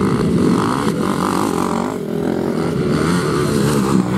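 Motocross motorcycle engines running hard, their pitch rising and falling as the throttle is worked.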